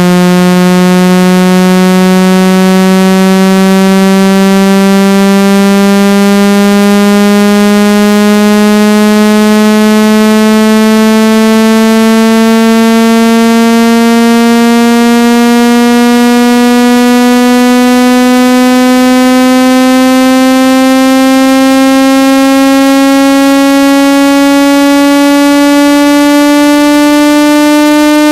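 Electronically generated speaker water-ejection tone: one loud, buzzy low tone gliding slowly and steadily upward in pitch, played to vibrate water out of a phone or earphone speaker.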